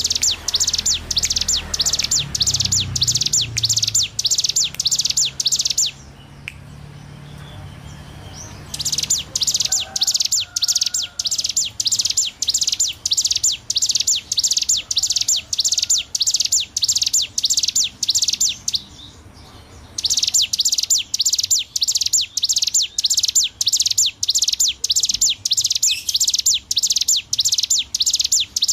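Hill prinia (ciblek gunung) singing in long runs of fast, evenly repeated high notes, with two short breaks: about six seconds in and again near two-thirds of the way through.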